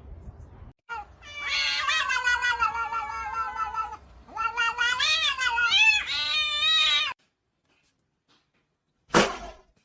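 A cat giving two long, drawn-out meows, the second wavering up and down in pitch and cutting off suddenly. A brief noisy burst comes near the end.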